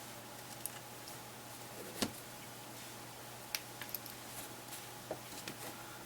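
Faint, scattered clicks and taps from small tools working on a media player's internal parts as the camera modules are pried out. The sharpest click comes about two seconds in, and lighter ticks follow, all over a low steady hum.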